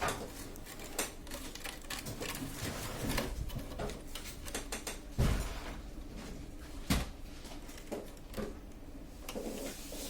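Scattered clicks and knocks of plastic printer parts being handled and fitted, with two louder knocks about five and seven seconds in.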